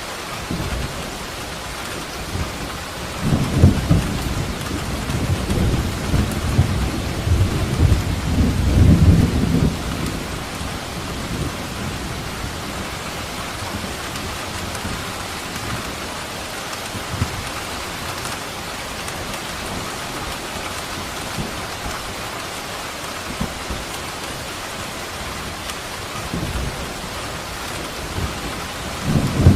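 Steady heavy rain with rolling thunder: a long low rumble swells about three seconds in and fades after about ten seconds, and another rumble begins near the end.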